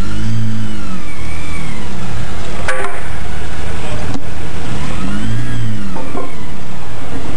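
Mk2 Golf G60's supercharged engine revving up and down twice as the car creeps forward at low speed. Two sharp knocks come in between, about a second and a half apart.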